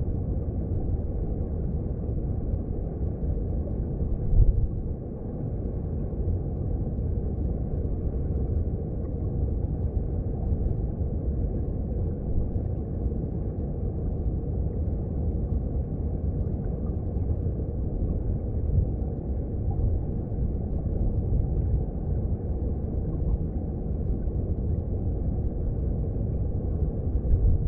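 Underwater sound of a mountain stream: a steady low rumble of flowing water, with one brief louder surge about four and a half seconds in.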